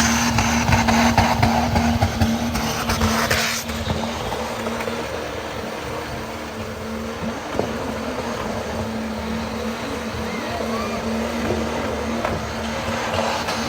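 Truck engine running with a loud rushing noise that cuts off about three and a half seconds in, leaving a lower, steady engine sound.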